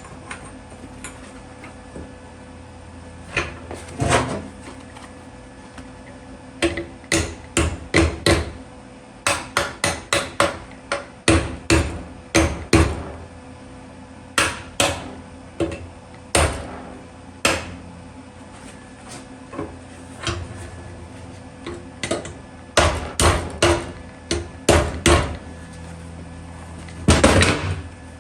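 Hammer striking metal: dozens of sharp, irregular blows in quick runs with short pauses between, some leaving a brief ring.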